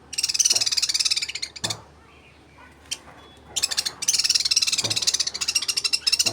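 Small pet parrots chattering: two long bouts of rapid, high-pitched, buzzy trilling, the first stopping about a second and a half in and the second starting a couple of seconds later, with a single short chirp between them.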